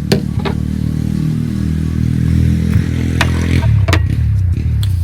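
A motorcycle engine running close by, swelling in loudness and fading away shortly after, as if passing. A few sharp clicks sound over it, about the start, half a second in and twice between three and four seconds.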